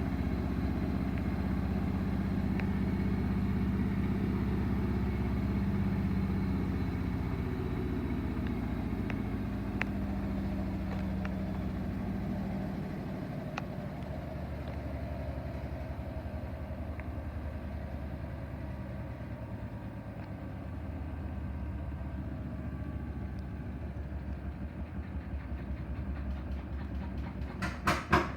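Bosch WAW28790AU front-loading washing machine on its spin cycle: a steady motor and drum hum whose high tone fades about halfway through, leaving a slower pulsing rumble as the drum winds down. A quick run of loud knocks comes right at the end.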